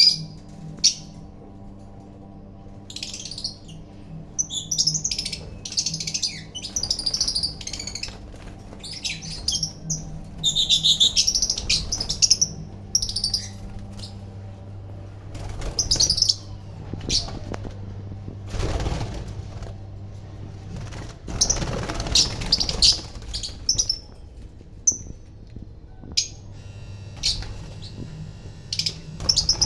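Caged lovebirds chirping in repeated short, high bursts, with wings flapping briefly now and then, most around the middle.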